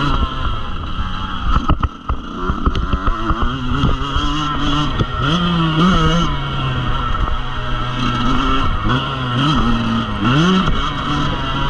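Motocross dirt bike engine being ridden, the revs rising and falling several times as the throttle is opened and shut, with a few sharp knocks in the first few seconds.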